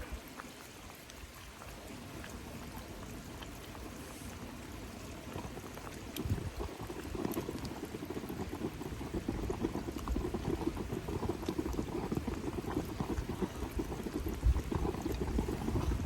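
Liquid bubbling as it cooks over a fire. It is quiet at first and grows to a dense, louder bubbling about six seconds in.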